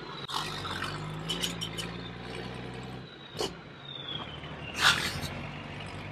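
Plastic Bruder toy vehicles knocking and scraping as a toy Unimog slowly pulls an overturned toy vehicle upright on a cable. There is a sharp knock about five seconds in, over a low steady hum.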